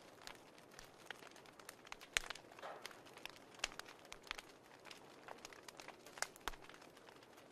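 Fireplace crackling: irregular sharp pops and snaps over a soft steady hiss, with a louder snap about two seconds in and another about six seconds in.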